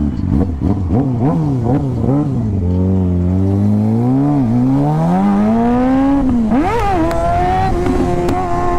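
Motorcycle engine blipping the throttle several times in quick succession, then pulling in a long rising acceleration, with a sharp drop in revs about six and a half seconds in before it climbs again as it filters between cars.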